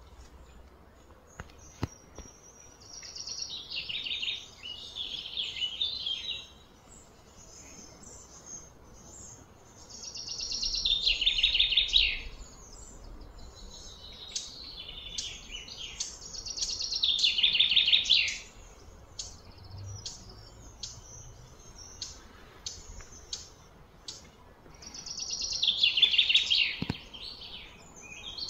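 A bird singing four loud, high trilled phrases of a few seconds each, every one building up and then stopping abruptly, with scattered short chirps in between.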